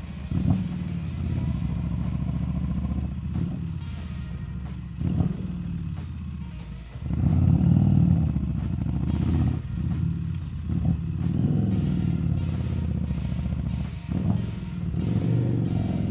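Harley-Davidson Street Rod 750's liquid-cooled V-twin running under way while being ridden, its note rising and falling with the throttle. It gets clearly louder for a couple of seconds about seven seconds in, as the bike pulls harder.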